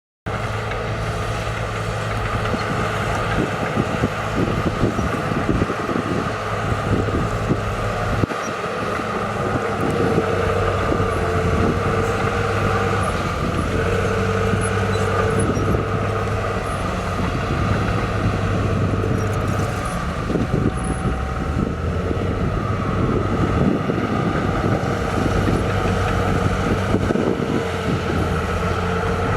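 Heavy diesel earthmoving machinery running steadily under load, an engine drone with a continuous low clatter, starting abruptly just after the beginning.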